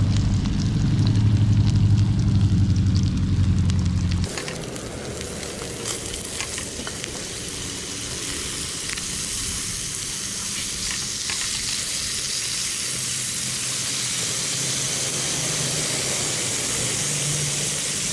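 Black bream fillets frying in olive oil in a non-stick frying pan: a steady sizzle with scattered small pops. A low steady hum lies under it for the first four seconds, then stops abruptly, leaving the sizzle on its own.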